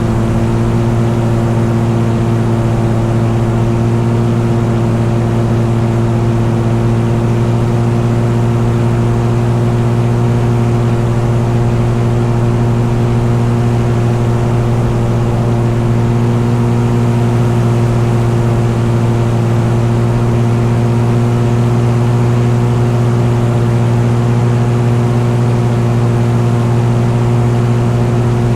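Light aircraft's piston engine and propeller running steadily at constant power in cruise, one unchanging drone with no rise or fall in pitch.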